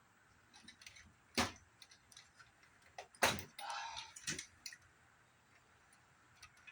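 Scattered clicks and knocks of hard parts being handled while a CRT monitor is taken apart, loudest about three seconds in, with a short scraping, rustling stretch just after it.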